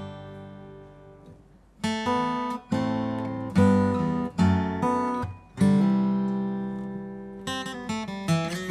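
Blueridge BR-140AS all-solid acoustic guitar with an Adirondack spruce top and mahogany body being played. A chord rings out and fades, then several chords are strummed and left to ring, and near the end quicker picked notes follow.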